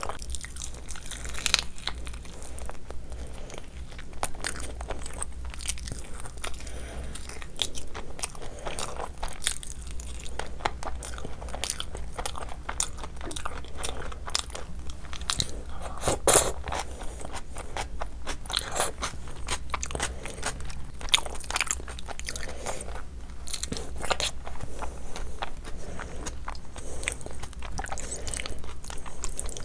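Close-up eating sounds: a person biting and chewing chicken on the bone and khichdi eaten by hand, a continuous run of sharp mouth clicks and chewing noises.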